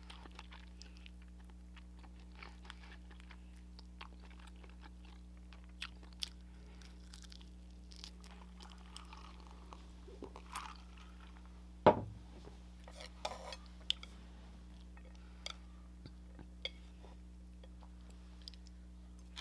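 Close-up eating sounds: crunching, biting and chewing on crispy soy fried chicken, with small wet clicks and crackles. About ten seconds in there is a drink from a glass, and a single sharp knock about twelve seconds in is the loudest sound.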